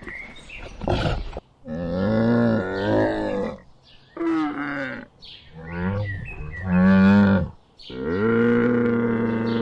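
Cattle mooing: about four long, low moos, starting about a second and a half in, with short pauses between them. Before them a different, choppier animal call is heard briefly.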